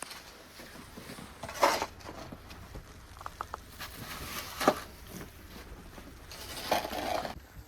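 Snow shovel scraping and scooping snow, three loud strokes a few seconds apart, over a steady low rumble of wind on the microphone.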